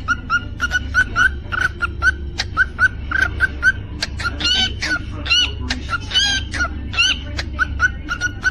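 Cockatiel chirping in a fast run of short, repeated notes, about four a second, with a few longer, fuller whistled calls in the middle. A steady low hum runs underneath.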